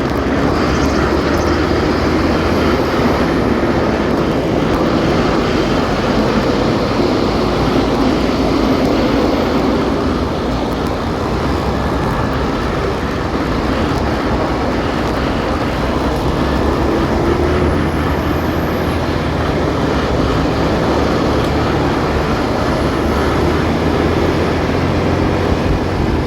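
Motorcycle underway at a steady pace: its engine running under a dense rush of wind and road noise.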